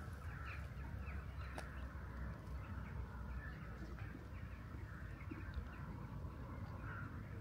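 Faint outdoor ambience: scattered bird chirps over a low, steady rumble.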